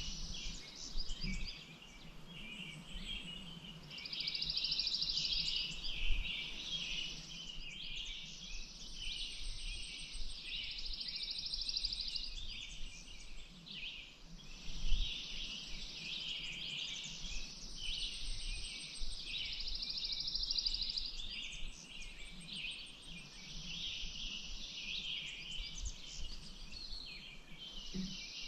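Several small birds chirping and singing together, with a long high trill, about two seconds each, coming back every several seconds.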